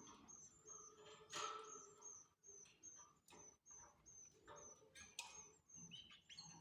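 Canaries giving faint, short high chirps, repeating about two to three times a second, with a few light clicks and rustles from the birds moving about the cage.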